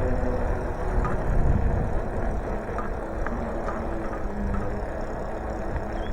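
Wind rumbling on the microphone and road noise while riding a bicycle, with the hum of a motor vehicle's engine drifting in pitch under it.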